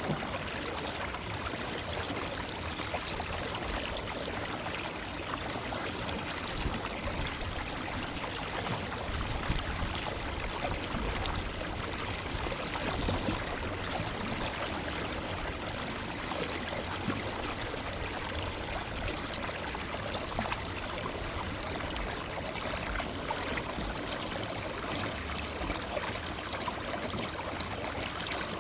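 Forest river flowing steadily, its water rushing and gurgling over rocks.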